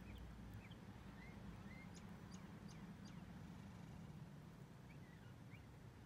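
Faint, scattered chirps of small birds: short high notes, some sliding down in pitch, over a steady low background hum.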